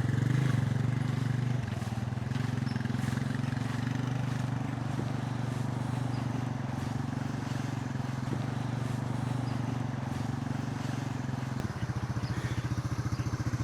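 Small gasoline engine idling steadily. Near the end its rapid firing beat becomes more distinct.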